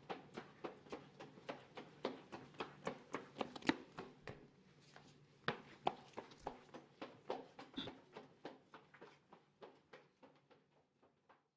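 Footsteps walking on a hard floor in a hallway, a quick even run of heel-and-toe clicks that fades away over the last few seconds.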